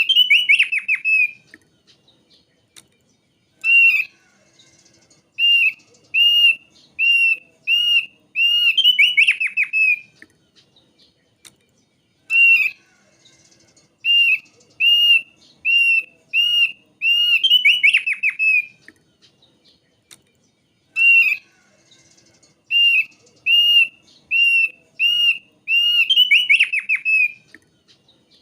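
Thick-billed white-eye song: runs of short, clear whistled notes, each rising and falling, about one every 0.7 s, each run ending in a quick tumbling trill. The same phrase comes three times with pauses of about two seconds, as in a looped recording.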